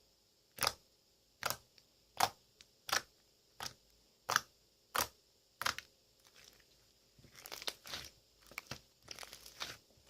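Hands squeezing and pressing slime: eight sharp pops about every three-quarters of a second, then a denser, irregular crackling over the last few seconds.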